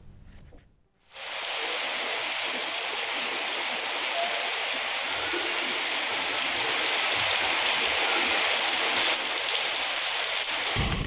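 Heavy rain pouring down onto flooded, waterlogged pavement, heard as a steady, even hiss. It starts about a second in after a brief silence and cuts off abruptly at the end.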